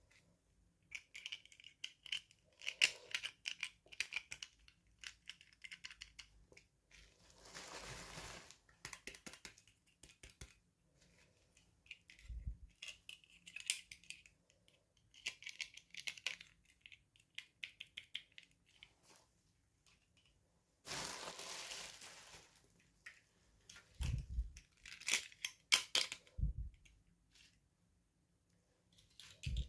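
Plastic toy packaging being handled and opened: crinkling and crackling in irregular bursts with small clicks and taps, and two longer tearing or rustling stretches, about a third of the way in and about two-thirds of the way through.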